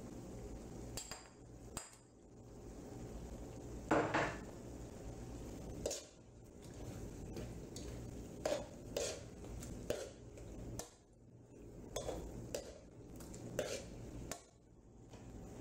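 Slotted spatula stirring chicken curry in a karahi, a deep wok-like pan: irregular scrapes and clinks of the spatula against the pan, with a louder knock about four seconds in.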